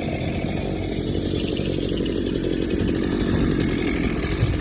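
Chainsaw running steadily at high speed, cutting through a storm-downed tree.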